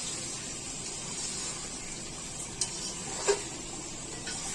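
Chicken curry sizzling steadily in a pan as it is sautéed and stirred for bhuna. A spatula knocks against the pan twice, a little past halfway, and the second knock is the loudest sound.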